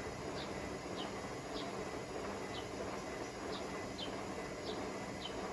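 Hotpoint Smart Tech WMFUG742 washing machine running its last rinse as a steady background noise, with short, high, falling chirps repeating roughly once or twice a second.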